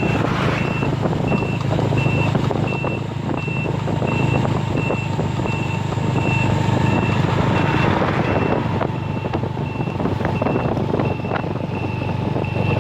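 A vehicle's reversing alarm beeping steadily, about one and a half high beeps a second, over the steady low hum of a running engine.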